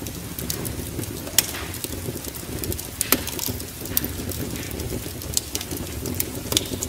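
Wood fire in a fireplace crackling, with irregular sharp pops, two louder ones a second and a half apart, over a steady low rumble.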